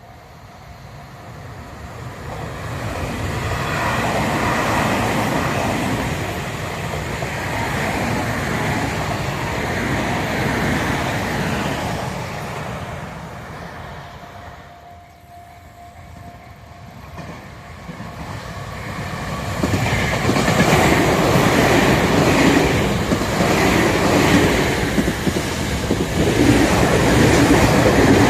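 Tobu Tojo Line electric trains passing one after another: the first swells in and fades after about a dozen seconds, then a second, louder one comes through with a rhythmic clatter of wheels over rail joints.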